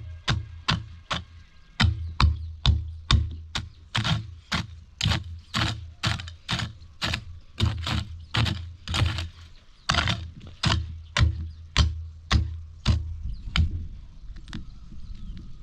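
A hand tool chopping into soil over and over to clear weeds, about two strikes a second, each landing with a dull thud. It pauses briefly twice.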